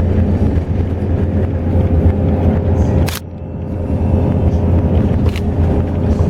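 Highway bus in motion: a steady low engine and road rumble. About three seconds in there is a sharp click, after which the rumble dips briefly and builds back up.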